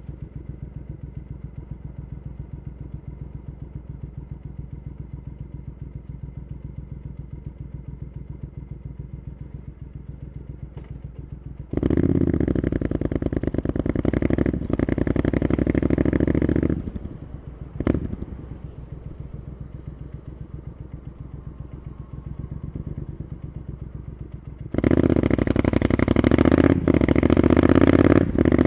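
Triumph Scrambler 900's parallel-twin engine through an Arrow exhaust, ticking over with an even pulse, then pulling away hard about twelve seconds in for several seconds before the throttle closes with a quick blip. After a stretch of quieter running it accelerates hard again near the end, with two short drops in sound at gear changes.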